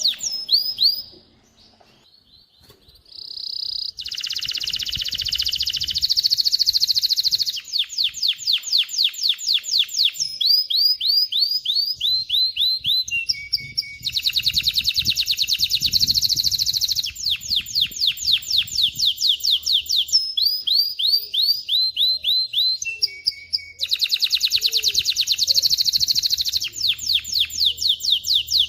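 Male canary singing a long song of rapid trills, each phrase a fast run of repeated high notes, with a brief pause about two seconds in.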